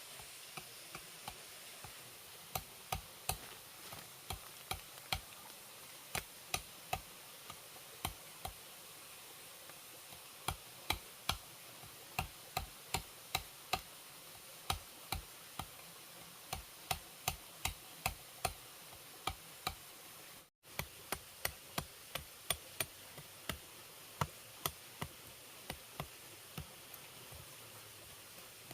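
Repeated sharp knocks of a tool striking bamboo as it is worked into a trap, about two or three a second in uneven runs.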